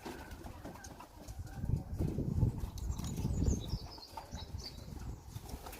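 Young racing pigeons fluttering and flapping their wings in short, irregular bouts, loudest in the middle.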